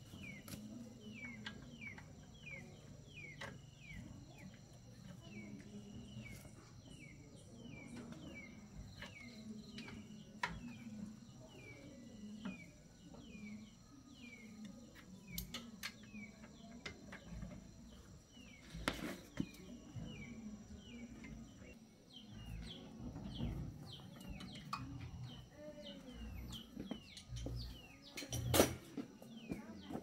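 A bird calling over and over in short falling chirps, with the odd sharp metal click and knock of hand tools on a walking tractor's engine, the loudest knocks near the end.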